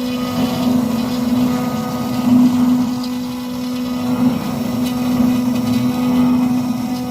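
Pond drum filter running: a steady electric motor or pump hum with a rushing, churning water noise underneath.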